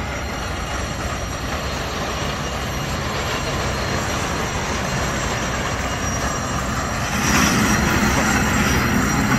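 Small passenger rail cars rolling along street-level track across a road: wheels running on the rails with a steady rumble, growing louder from about seven seconds in as the cars pass close.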